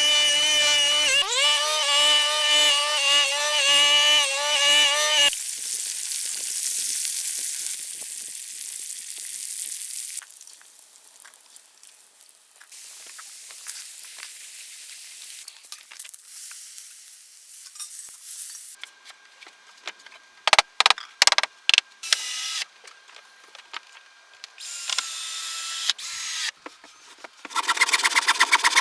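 Power tool work: a motor runs steadily, briefly bogging down about a second in, and cuts off about five seconds in. A hiss follows, then scattered knocks and clicks, and a buzzy rhythmic power tool starts up near the end.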